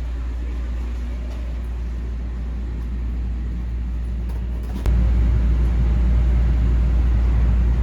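Steady low rumble of an EMU3000 electric train running. It becomes abruptly louder with a click about five seconds in.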